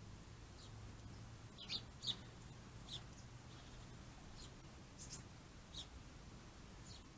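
Small birds chirping: short, high chirps spaced a second or so apart, the two loudest close together about two seconds in, over a faint steady low hum.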